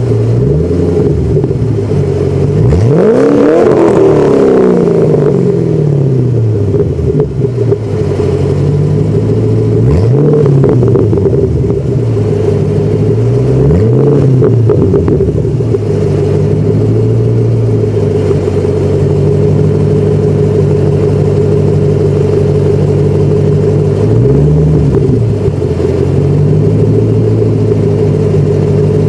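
2008 Ford Mustang GT's 4.6-litre V8 idling through a Borla Stinger S-Type axle-back exhaust with a Pypes X-pipe, revved four times: one longer rev that rises and falls back slowly a few seconds in, then three short blips.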